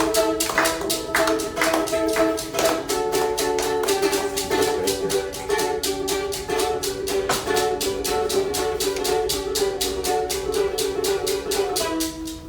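Instrumental music: a plucked string instrument strummed rapidly and evenly over steady chords.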